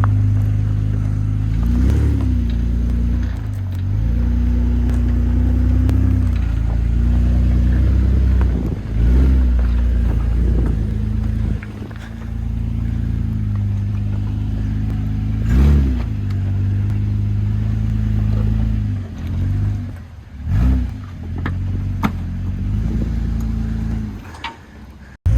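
Muffler-deleted 1FZ-FE inline-six of an 80-series Toyota Land Cruiser running loud under load, its revs rising and falling in short surges several times, then easing off near the end.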